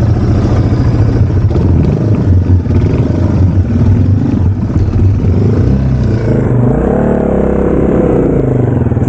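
Yamaha TW200's single-cylinder four-stroke engine running under load as the bike churns through deep mud, its pitch rising and falling about seven seconds in as the throttle is worked.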